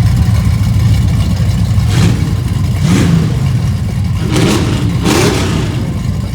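Car engines running, with a steady low rumble and several brief revs about two, three, four and a half and five seconds in.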